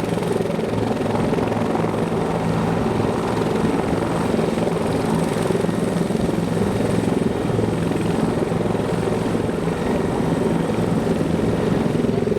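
Bell 412EP helicopter running steadily: a constant drone of its twin turboshaft engines and four-blade rotor, with steady low tones under a dense noise and no change in pitch or level.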